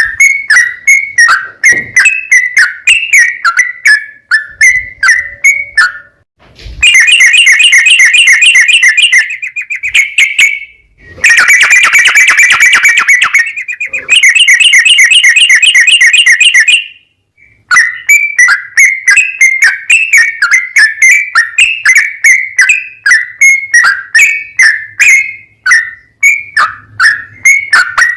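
Yellow-vented bulbul (trucukan) song: short bubbly chirping notes at about three a second, broken from about seven to seventeen seconds in by three long, fast rattling trills (the 'ropel'), then the chirping notes again.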